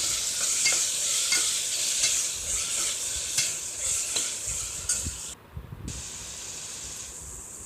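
Onions and tomatoes sizzling in hot oil and ghee in a pressure cooker as they are stirred, with scattered clicks of the spoon against the pot. The sizzle drops out briefly about five seconds in and comes back quieter.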